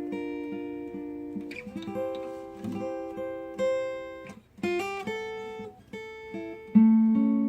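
Acoustic guitar playing chords, the notes plucked and strummed and left ringing, moving to a new chord three times.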